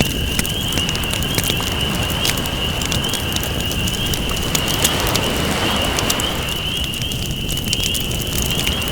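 Campfire crackling with many sharp pops over the wash of ocean waves, the surf swelling and easing back every few seconds.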